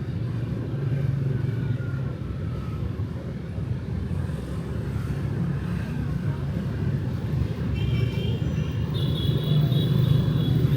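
Steady low rumble of street traffic with motorbikes going by. From about eight seconds in, a high steady tone rings over it.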